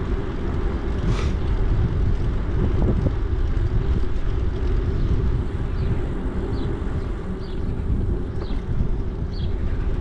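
Wind buffeting the microphone of a camera riding on a moving bicycle, a steady low rumble throughout, with a string of short high chirps about once a second in the second half.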